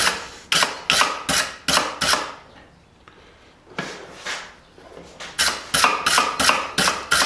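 Blacksmith's strokes on a hot steel hammer head, about three a second, in two runs with a short pause and two softer strokes between.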